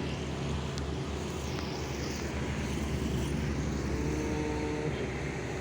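Wind buffeting the microphone over a steady outdoor rumble, with a faint pitched hum about four seconds in.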